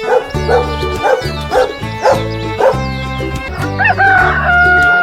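Music with a dog barking over it: six short barks about half a second apart, then a long held high tone starting about four seconds in.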